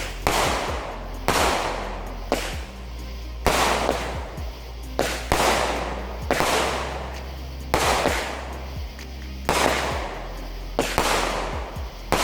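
A 9-shot 200-gram consumer firework cake firing: about nine sharp bangs, roughly one a second, each dying away over about half a second.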